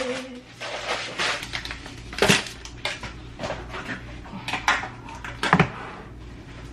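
Groceries being unpacked: packaging rustling and items set down with irregular knocks and clatters, the two loudest about two seconds and five and a half seconds in.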